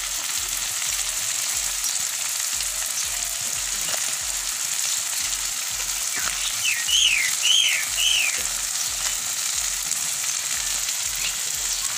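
Chopped banana flower and chicken sizzling steadily in hot oil in a kadai. About seven seconds in, three or four short rising-and-falling whistled chirps sound over the sizzle.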